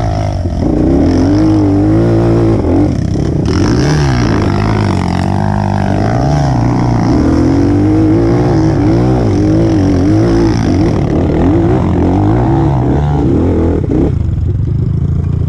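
Enduro motorcycle engine revving hard and unevenly, its pitch rising and falling again and again as the throttle is worked under load. About 14 s in it drops back to lower revs.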